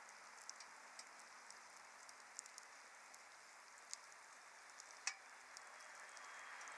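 Wood campfire crackling faintly: scattered sharp pops and ticks over a soft steady hiss, with one louder pop about five seconds in.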